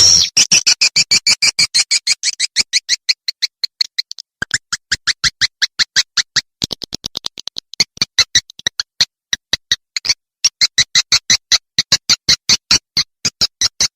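Swiftlet calling sound of the kind played to lure swiftlets: a long run of rapid, evenly spaced high chirps, about five or six a second, with short breaks about four seconds and ten seconds in.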